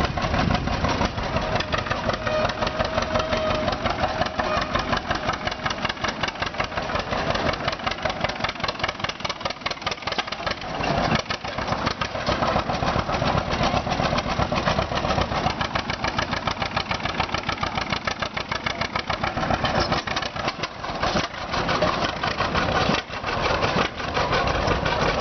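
Tractor engine being pull-started and running with a rapid, even firing beat, which dips briefly twice.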